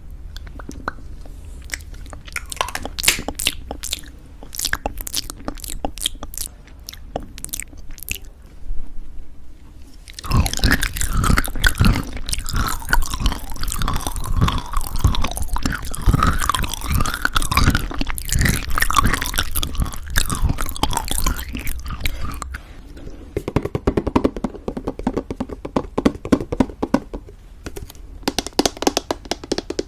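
Close-miked chewing of crunchy granola in thick yogurt: crisp, rapid crunches, louder and denser for a long stretch from about a third of the way in, then softer toward the end.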